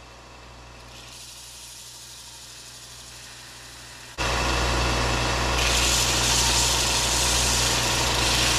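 Electric sander running, sanding quench oil off a hardened steel knife blade. It becomes much louder with a sudden jump about four seconds in, and the hiss grows again a second or so later.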